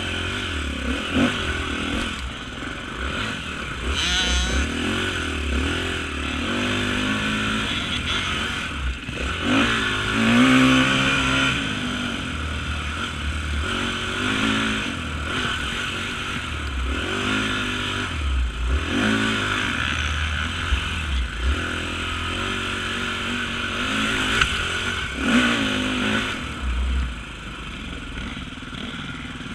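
Off-road motorcycle engine revving hard, its pitch rising and falling over and over as the throttle is opened and closed.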